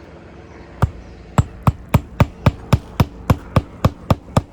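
Hand hammer driving a roofing nail flush into asphalt shingles: one blow, then a steady run of about a dozen quick, evenly spaced strikes.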